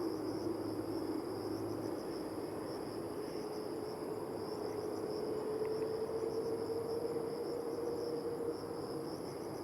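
Steady high-pitched insect buzzing, pulsing quickly, over a faint background hiss, with a low hum that slowly rises in pitch through the middle and stops near the end.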